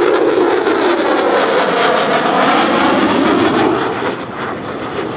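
An F-16C fighter jet's engine heard as the jet flies past, a loud jet roar with a sweeping, shifting tone that drops off after about four seconds.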